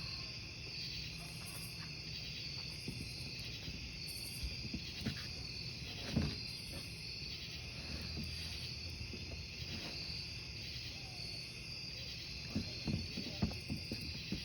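Crickets chirping steadily over a crackling wood campfire, with a louder pop about six seconds in and a flurry of crackles near the end.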